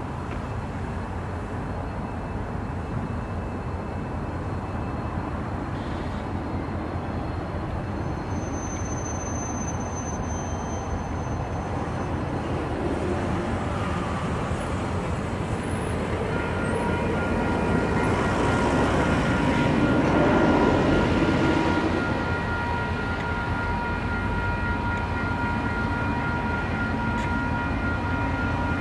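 Train approaching: a low rumble builds to its loudest about two-thirds of the way through, then eases, and a steady whine of several pitches sets in from a little past halfway.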